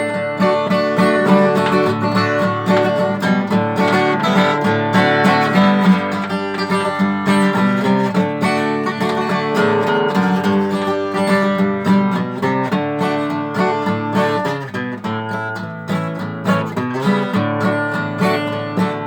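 Acoustic guitar playing an instrumental passage between verses of a slow country-style song, strummed and picked with no singing.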